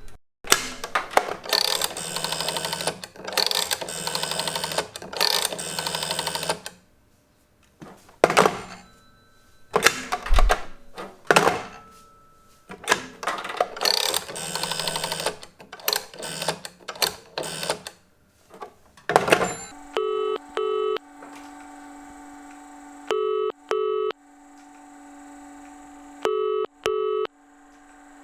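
Strowger electromechanical telephone exchange switches clicking and rattling as they step and connect, with long stretches of telephone bell ringing. About two-thirds of the way in this gives way to a ringing tone on the line: a low double beat, ring-ring, repeating about every three seconds.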